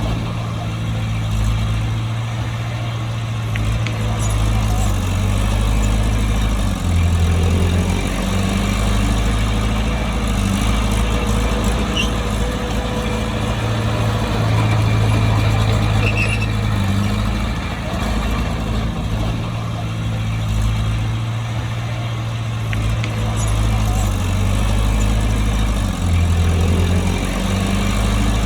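Heavy diesel engine of a bulldozer running steadily at work, its engine note shifting in pitch briefly about a quarter of the way in and again near the end as the load changes.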